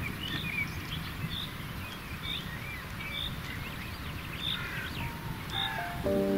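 Songbirds chirping and whistling repeatedly over a steady low rumble. Music comes in about five seconds in, a few stepping notes and then a sustained chord.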